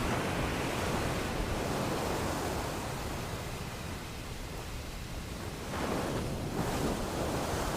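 Ocean waves washing onto a beach: a continuous surf rush that ebbs in the middle and swells again about six seconds in.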